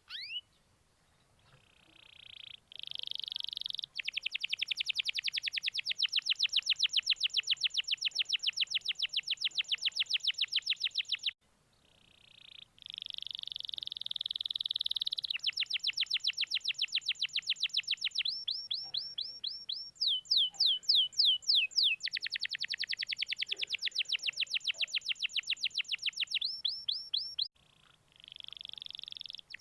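Domestic canary singing a long song of rapid, high trills, with a stretch of slower downward-sweeping notes in the middle; the song breaks off briefly twice. It is a lure song ('pancingan') played to prompt canaries that are reluctant to sing.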